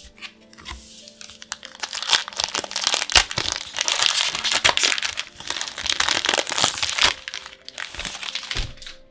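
Plastic-foil Magic: The Gathering booster pack wrapper crinkling and crackling as it is handled and opened, a dense run of crackles lasting about seven seconds.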